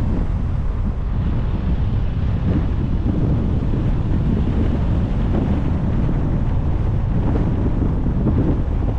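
Wind buffeting the microphone of a camera on a moving car, a steady low rumble that does not let up.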